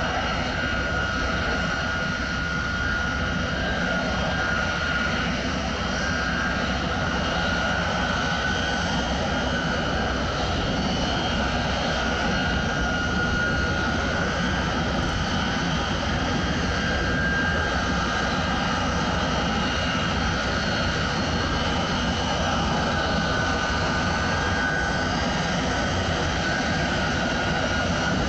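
B-52H Stratofortress's eight TF33 turbofan jet engines running steadily: a continuous roar with a high engine whine over it.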